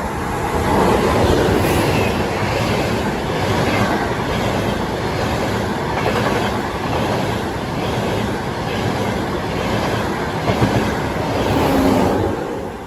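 Train passing alongside the platform, its wheels clattering on the rails. The noise swells up about half a second in, holds, and falls away sharply near the end.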